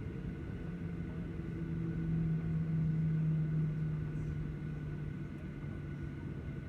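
Low, steady vehicle rumble with a droning hum that swells about two seconds in and eases off again after about four seconds.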